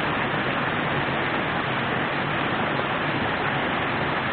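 Steady rush of flowing river water, an even noise with no breaks or separate events.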